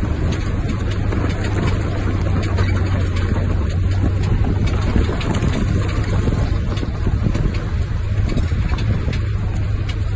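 Off-road vehicle's engine running steadily at low revs, a constant low hum, with a stream of small clicks and rattles over it.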